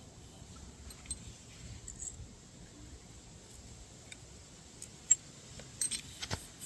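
Small metal tools being handled, clicking and clinking now and then, with a sharp click about five seconds in and several more in quick succession just after.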